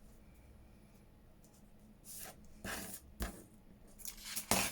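Paper and a tear ruler handled on a craft desk: a few short rustles and scrapes with one soft knock, the loudest rustle near the end.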